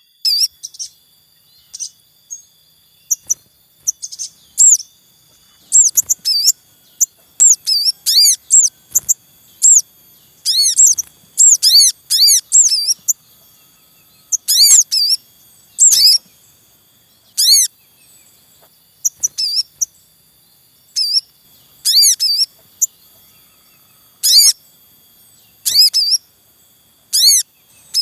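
Sogon birds in the wild calling with many short, high, arched chirps, some in quick clusters of two to four. The calls are spaced irregularly over faint steady high-pitched tones.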